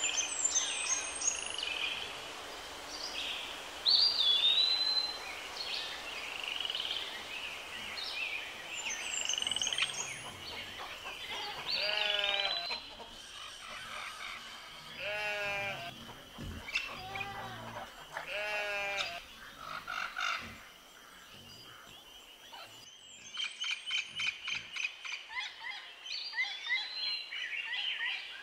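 Birds chirping, whistling and trilling, with a fast run of repeated chirps near the end. Around the middle, three longer wavering calls, each about a second long, come a few seconds apart.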